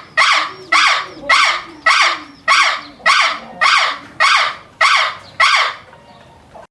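A bird giving a harsh, loud call over and over, about ten evenly spaced calls a little more than half a second apart, which stop near the end.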